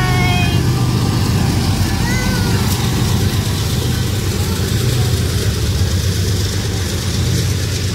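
Diesel freight train passing close by: the locomotives' engines run with a steady low hum, followed by intermodal well cars rolling past on the rails.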